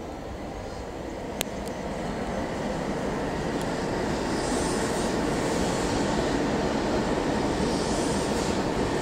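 Shinano Railway 115-series electric train approaching on its way into the station, its rumble growing steadily louder. A single sharp click about a second and a half in.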